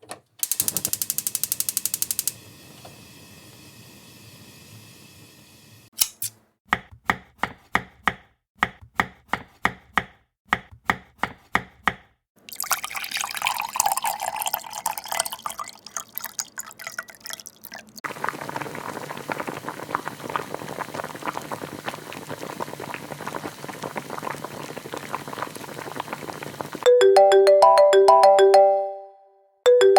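A chain of alarm sound effects. It opens with a rapid buzz, then runs into a string of sharp clicks and a long stretch of hiss-like noise. About three seconds from the end, a repeating electronic ringtone melody starts.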